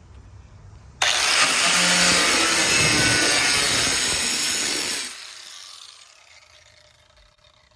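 A cut-off wheel cutting through the rusted sheet metal of a truck body panel. It starts abruptly about a second in, runs steadily for about four seconds with a thin high whine, then stops and briefly winds down.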